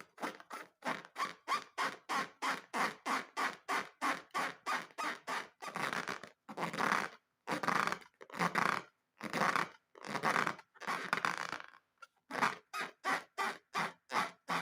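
Repeated squeaky rubbing strokes, about three a second, with a run of five longer, drawn-out strokes in the middle before the quick strokes resume.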